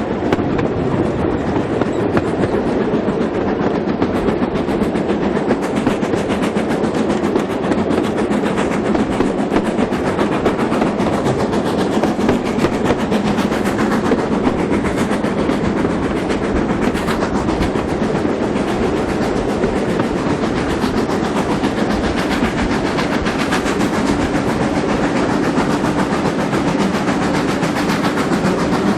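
Steam-hauled passenger train running, heard from aboard: a steady loud rumble with wheels clattering over the rails.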